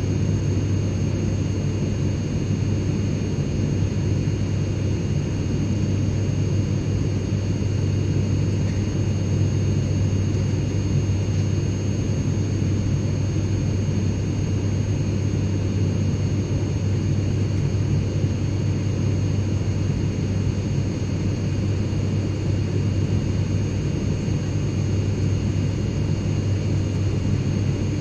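Steady airliner cabin noise: a constant low rumble of engine and airflow, with a few faint steady high tones above it and no change throughout.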